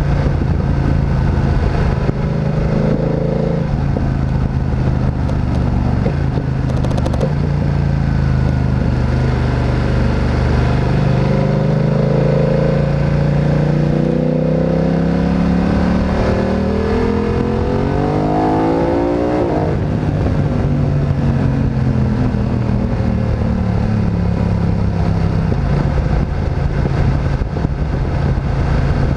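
Motorcycle engine on the move: running steadily at low revs, then revving up for about eight seconds, faster toward the end, before the throttle closes sharply and the revs fall back to a steady low note.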